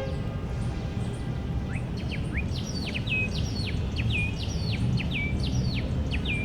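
A songbird singing a repeated phrase: a few short rising chirps about two seconds in, then a run of quick downward-sweeping whistles, each ending in a short level note, over and over. A steady low rumble of background noise runs underneath.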